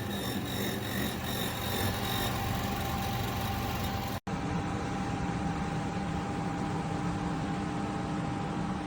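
KGOGO 7000 BTU portable air conditioner running: a steady whir of fan and airflow over a constant hum. There is a momentary gap about four seconds in, and then the same sound continues.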